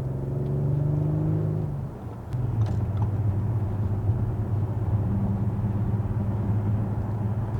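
2018 Audi SQ5's turbocharged 3.0-litre V6 with its exhaust resonator removed, heard from inside the cabin as the car pulls up to highway speed: a low, steady exhaust drone. The drone dips briefly about two seconds in, then settles back.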